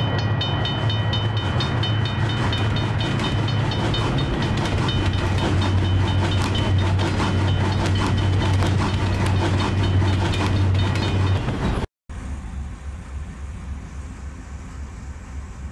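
Train sound effect: a loud, steady low rumble with rapid clicking of wheels over rail joints. It cuts off sharply about twelve seconds in and gives way to a much quieter, evenly pulsing low hum.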